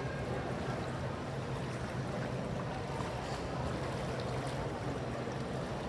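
Boat moving on the water: a steady low hum under an even rush of water noise.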